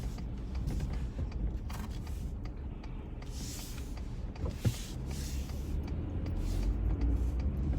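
Inside the cab of a small truck on the move: a steady low road-and-engine rumble, with two short hissy swells in the middle and a brief click.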